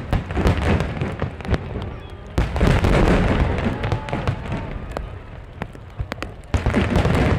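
Aerial fireworks bursting: a rapid run of bangs and crackles, with heavier volleys of booms about two and a half seconds in and again near the end.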